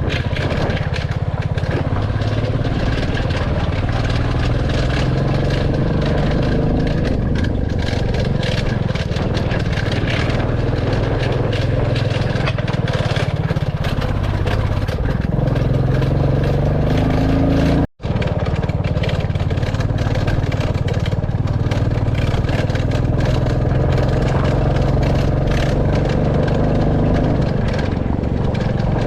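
Royal Enfield Classic 350's single-cylinder engine running under way, its pitch rising and falling with the throttle. The sound cuts out for an instant about two-thirds of the way through.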